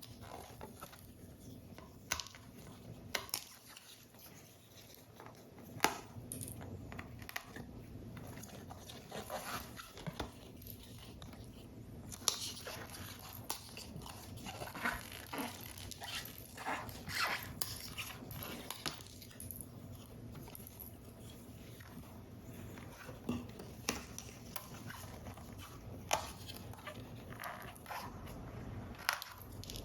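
Paper-model assembly handled close to the microphone: card pieces being handled and pressed, with scattered sharp clicks and taps and a busier stretch of rustling and scraping in the middle.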